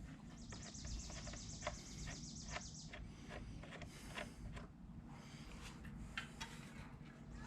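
Faint, scattered light clicks and taps of hand tools and small parts being handled during carburetor removal on a motorcycle, with a bird's fast, high trill in the background for the first few seconds.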